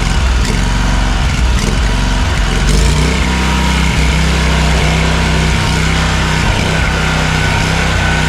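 Toro Z587L zero-turn mower's engine running steadily just after being started, its pitch shifting slightly about three seconds in. It is being run to test the cooling fan, which should be running and is not.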